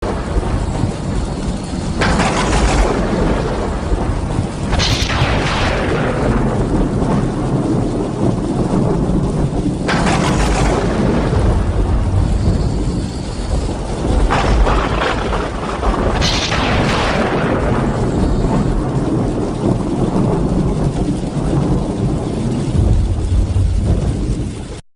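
Heavy downpour, a dense steady rush of rain with a deep rumble underneath, swelling suddenly and loudly several times before easing back.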